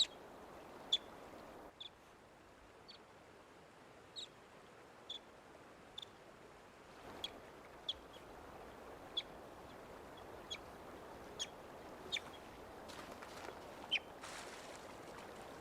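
Young river otter giving short, high chirps, roughly one a second, over a faint steady rush of river water. These are the calls of a youngster left behind by its family.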